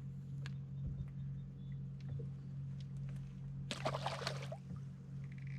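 Boat motor humming steadily at a low, even pitch, with scattered light knocks and a short burst of noise about four seconds in.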